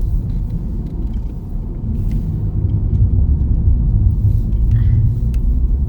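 Steady low rumble of a car driving, heard from inside the cabin, growing a little louder about two seconds in.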